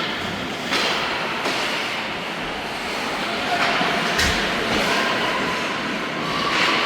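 Game noise from players in a large echoing hall: a steady scraping, rushing noise broken by a few sharp knocks and thuds, with faint distant shouts in the second half.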